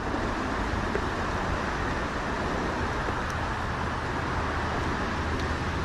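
Steady outdoor background rush with a faint low hum underneath, holding even throughout.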